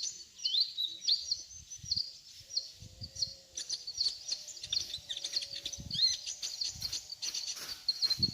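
Kolibri ninja sunbird calls, used to lure wild birds: a fast run of high, thin chirps and twitters, many short falling notes, going on without pause. Faint low rumbles sound under them.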